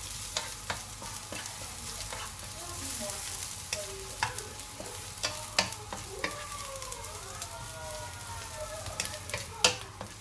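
Julienned ginger sizzling in hot cooking oil in a nonstick wok, stirred with a wooden spatula that clacks against the pan now and then, the loudest knock near the end. Faint rising and falling tones sound in the background from a little after the middle.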